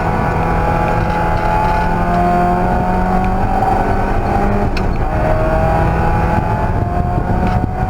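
Race car engine under hard acceleration, its pitch climbing and dropping back several times as it shifts up through the gears.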